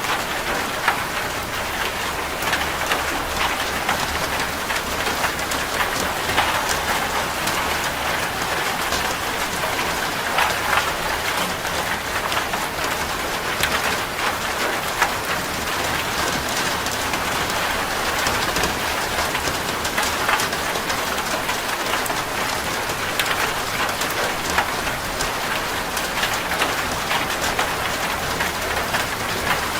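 Steady heavy rain drumming on a corrugated zinc roof: a dense even patter with many sharp individual drop strikes.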